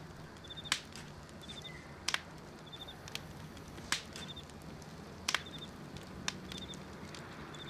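Night ambience: a cricket chirping in short pulsed trills about once a second, over a faint low hum. Sharp clicks or snaps stand out about five times, and they are the loudest sounds.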